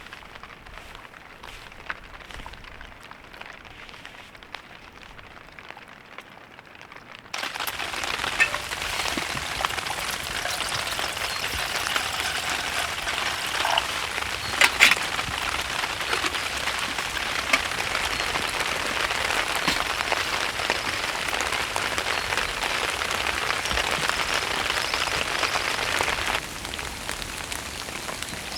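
Heavy rain falling steadily. It is fainter for the first seven seconds, then abruptly much louder, with a few sharp knocks about halfway through.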